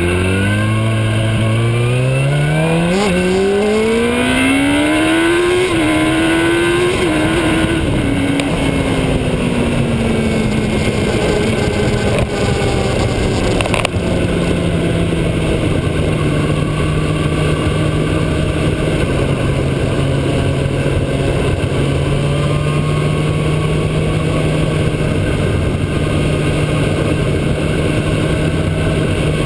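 Motorcycle engine pulling away, its note climbing steeply over the first six seconds with a brief dip about three seconds in, then easing down and settling to a steady note while cruising, over a constant rush of wind and road noise.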